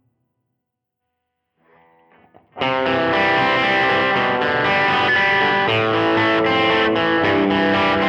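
Electric guitar played through a Nobels ODR-1 style overdrive into a Vox AC30 amp sound with reverb. A second and a half of silence gives way to a few soft picked notes, then from about two and a half seconds in a loud overdriven riff of sustained chords.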